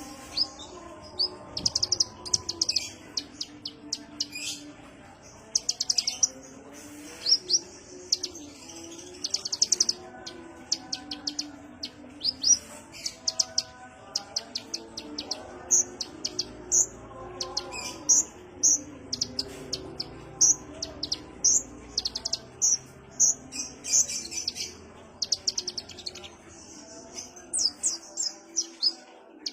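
Kolibri ninja (a sunbird) singing: rapid high-pitched chirps and short trills, repeated in bursts with brief pauses between them, over a fainter, lower wavering sound.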